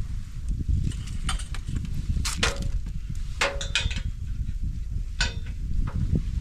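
Steady low rumble with a handful of sharp knocks and clinks, some ringing briefly.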